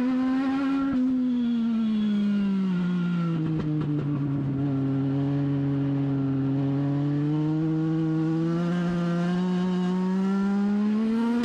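Legend race car's Yamaha four-cylinder motorcycle engine running at racing speed, its pitch dropping as the driver comes off the throttle for a corner, holding low for a few seconds, then climbing again as he gets back on the power.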